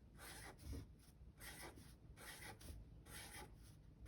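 Faint scratching of a pen on paper drawing small circles one after another, in short strokes about every half second.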